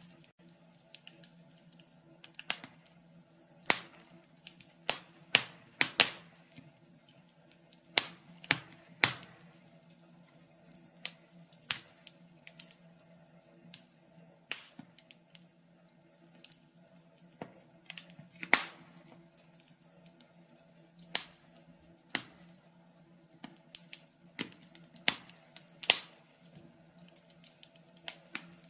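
Wood fire crackling in a fireplace: burning logs giving irregular sharp pops and snaps, roughly one or two a second, with a few louder cracks, over a faint steady hiss.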